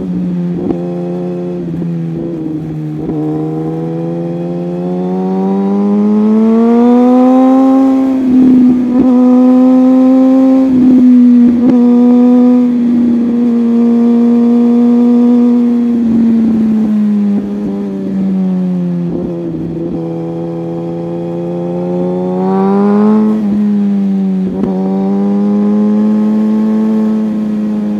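Sport motorcycle engine running at a steady cruise, its note slowly rising and falling with the throttle. A few brief dips in the note, near the middle and again later, are likely throttle roll-offs or gear changes.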